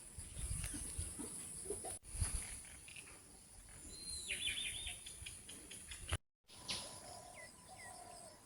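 Outdoor morning ambience of birds calling over a steady high insect buzz, with low rumbling on the microphone in the first few seconds. About four seconds in a bird gives a call that drops into a quick trill, and short whistled calls follow near the end. The sound cuts out briefly just after six seconds.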